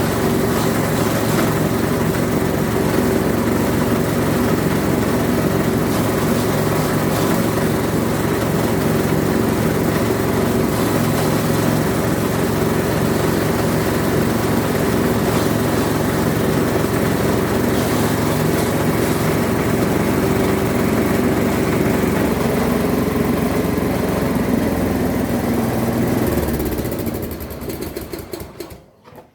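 A small engine running steadily at a constant speed, then winding down and stopping near the end.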